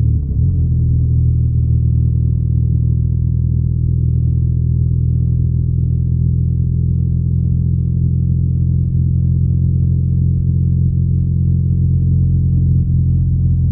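BMW R nineT's 1170 cc air/oil-cooled boxer twin running steadily while the motorcycle is ridden, its pitch briefly dipping and recovering shortly after the start and then holding even.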